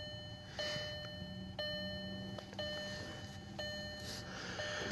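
2001 Volkswagen Jetta TDI's dashboard warning chime dinging about once a second, with the ignition on while the diesel's glow plugs preheat before a cold start. A faint steady hum lies underneath.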